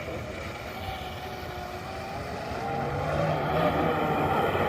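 Electric motor of a Pro Boat Sonic Wake RC speedboat whining as it runs on 6S, its pitch gliding up and down, growing louder about three seconds in as the boat is throttled up.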